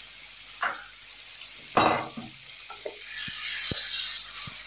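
Masala paste sizzling in hot mustard oil in a kadai with fried potato cubes, a steady hiss as it is stirred with a spatula. There is a louder burst of noise about two seconds in and a few light taps of the spatula on the pan near the end.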